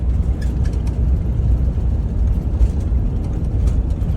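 Steady low rumble of a van's engine and tyres while it is being driven.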